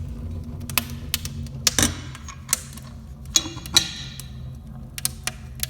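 Wood fire crackling in the firebox of a newly built brick stove on its first firing: irregular sharp cracks and pops over a steady low hum.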